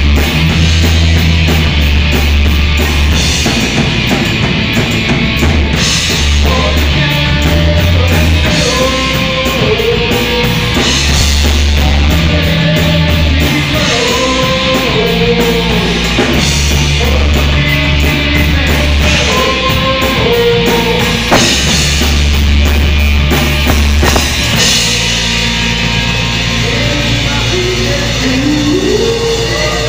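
Live rock music from a band: pulsing bass notes and a drum kit under a wavering melody line. Near the end the bass drops out and a line rises to a held note.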